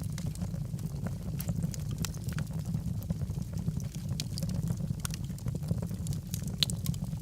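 Wood fire crackling, with frequent sharp pops and snaps over a steady low rumble of burning logs.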